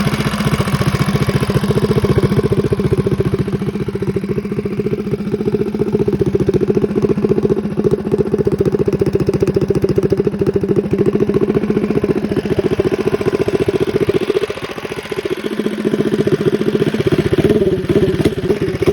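Predator 212cc single-cylinder four-stroke engine on a Coleman B200R minibike running steadily. Its note drops away for a moment about fifteen seconds in, then comes back up. The owner reckons the carburettor is mostly dialed in but still needs the needle moved up a little.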